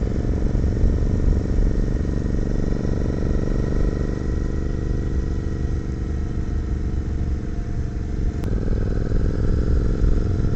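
Royal Enfield 650 parallel-twin motorcycle engine running steadily while riding.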